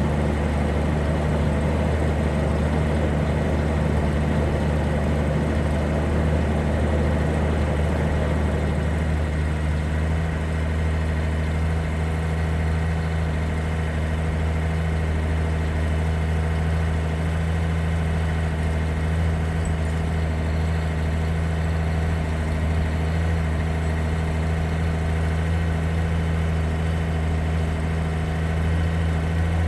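Toyota 2F 4.2-litre straight-six petrol engine in a 1969 Land Cruiser FJ40 idling steadily while warming up from a cold start, choke half out. About nine seconds in the idle drops slightly and settles.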